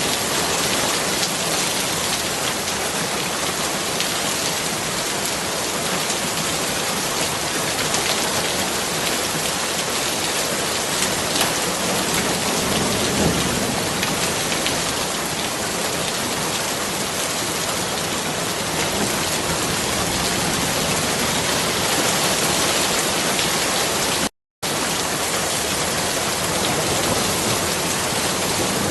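Steady heavy rain, an even hiss flecked with the ticks of individual drops striking a surface. It cuts out completely for a split second about 24 seconds in.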